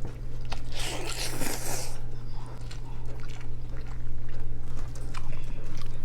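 Close-miked eating: a person chewing and biting pork adobo, with a loud crunchy bite lasting about a second starting near the first second, then wet chewing clicks. A steady low electrical hum runs underneath.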